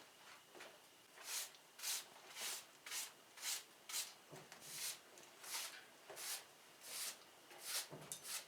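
Faint rhythmic scuffing strokes, about two a second, each a short soft hiss.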